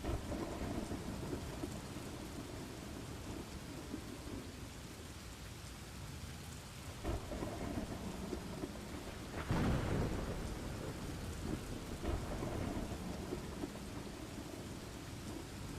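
Thunderstorm: steady rain falling, with rolling thunder rumbling through it and swelling loudest a little past the middle.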